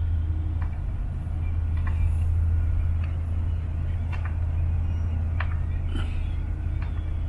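Many gulls calling, short scattered cries about once a second, over a steady low hum.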